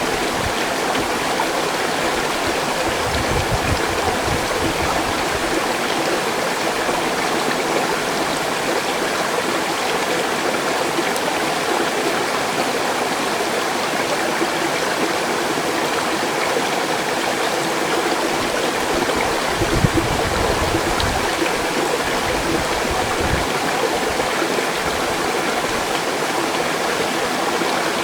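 Mountain stream rushing steadily. A couple of brief low rumbles come through, one a few seconds in and a stronger one about two-thirds of the way through.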